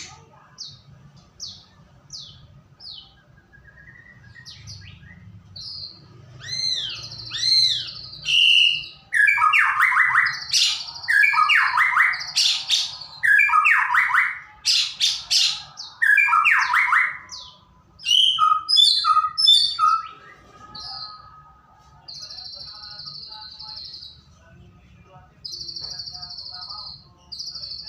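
White-rumped shama singing a varied song: short falling whistles, arching notes, loud rapid chattering phrases in the middle, then a few drawn-out buzzy notes near the end.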